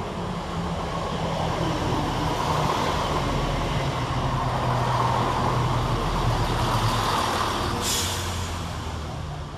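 Class 170 Turbostar diesel multiple unit running into the station on its underfloor diesel engines, a steady low engine hum that swells and then fades. A short hiss of air comes about eight seconds in.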